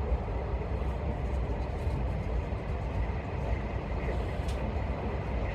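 Passenger train running at speed, heard from inside the carriage: a steady low rumble of wheels and running gear with an even noise above it.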